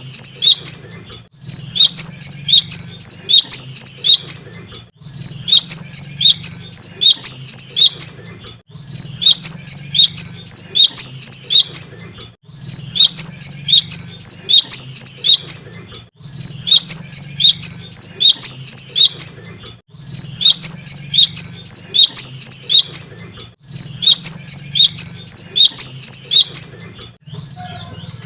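Cinereous tit (gelatik batu) singing steadily. Bouts of fast, high, sharp chirps, each about three seconds long, repeat every four seconds or so.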